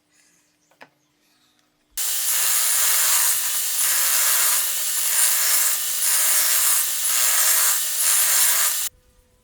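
Wood being worked by hand with steady back-and-forth strokes, sawing or sanding, a little faster than one stroke a second. The sound starts about two seconds in and cuts off abruptly near the end.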